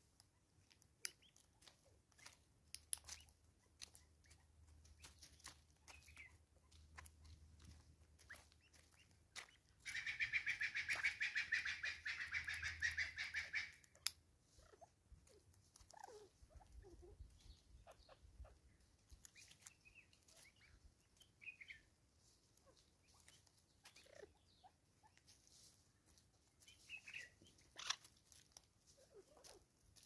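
Scattered small clicks and taps of a southern red-billed hornbill pecking at seed on a wooden feeder stump. About ten seconds in, a loud, rapid rattling call lasts about four seconds and then cuts off.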